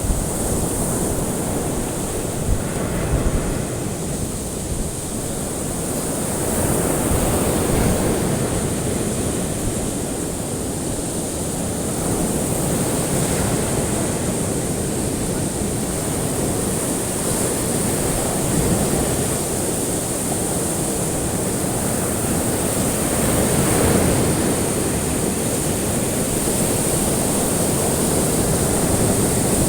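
Ocean waves washing on a shore, a steady surf that swells and eases every few seconds, with a steady high hiss over it.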